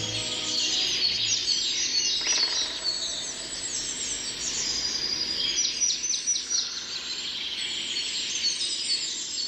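Many birds chirping and singing together, a dense chorus of short high calls and trills. The last low notes of a music track fade out in the first second and a half.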